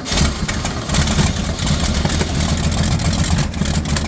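1965 Ford Mustang engine running loud and uneven, with its carburettor flooded with B-12 carburettor cleaner.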